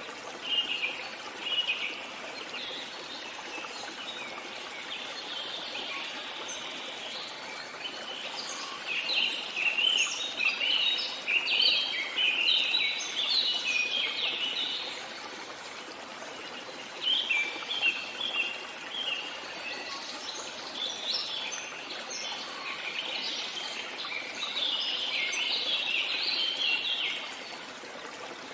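Songbirds chirping and singing in quick, dense runs that come in spells, loudest about a third of the way in and again near the end, over the steady rush of a flowing stream.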